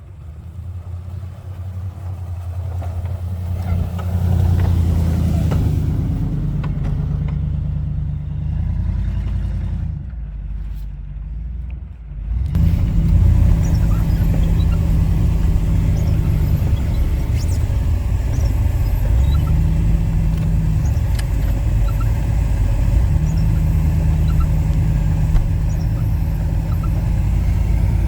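An engine running, its speed rising over the first few seconds, easing off briefly about ten seconds in, then picking up again and running loud and fairly steady with small rises and falls in pitch.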